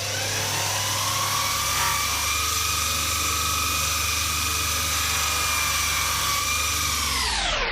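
Buffing machine running a soft buffing wheel loaded with compound, giving a steady whine as the handle scales are buffed. Its pitch climbs over the first second, and near the end the whole sound drops sharply in pitch.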